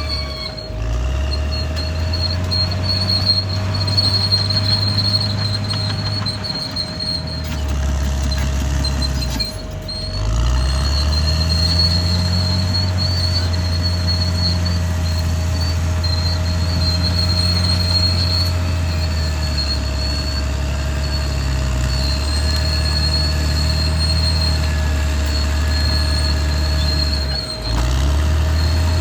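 Caterpillar D6R XL bulldozer running under load, its diesel engine note dipping briefly and recovering several times, about a second in, around seven and ten seconds, and near the end. A thin, wavering high-pitched tone runs over the engine sound.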